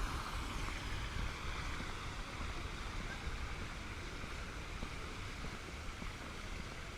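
Steady outdoor street ambience: a distant traffic hum with a low, uneven wind rumble.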